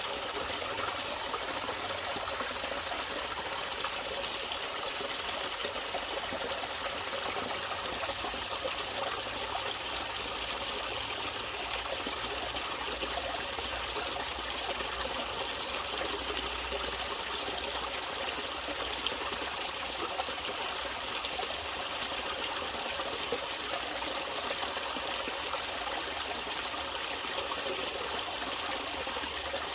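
Natural water running and trickling steadily, like a small stream.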